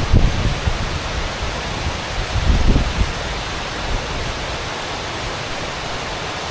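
Steady rushing noise of a waterfall, with wind buffeting the microphone in low gusts near the start and about two and a half seconds in.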